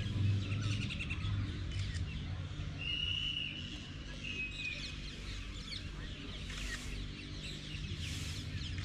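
Many small birds chirping at once, with two longer, steady high notes a few seconds in.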